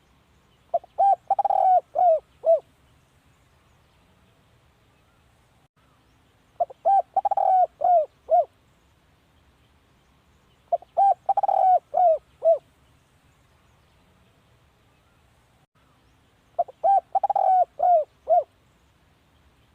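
Spotted dove cooing: four phrases a few seconds apart, each a quick run of short coos around a longer central coo, ending in two falling notes. It is the spotted dove's call as used to lure wild spotted doves to a decoy.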